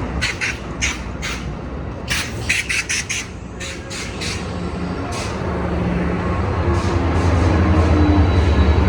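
Train at a station: a quick series of short, sharp squeaks in the first few seconds, then a diesel locomotive's low engine rumble building toward the end.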